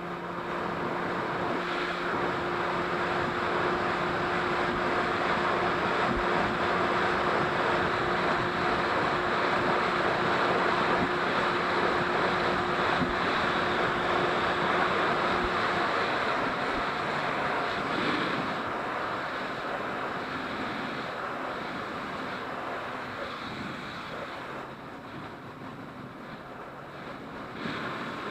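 Jet ski running on the water: a steady engine hum under a rush of water and wind. The engine hum stops a little past halfway and the rush then eases off.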